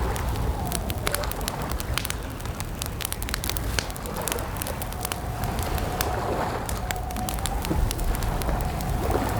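Campfire crackling: dense irregular snaps and pops over a low rumble. A faint steady tone runs through the second half.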